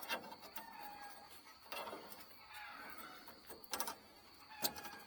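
Sharp metallic clicks and knocks from a sawmill band blade being handled and seated on the mill's wheels, with a cluster of clinks near the end. Chickens cluck faintly in the background.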